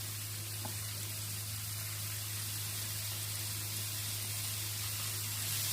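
Flour-coated mackerel frying in hot oil: a steady sizzling hiss, over a constant low hum.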